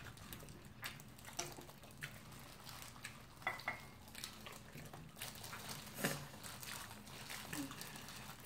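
Wet chewing and lip-smacking of two people eating sauced fried chicken by hand, with scattered soft sticky clicks and one sharper smack about six seconds in.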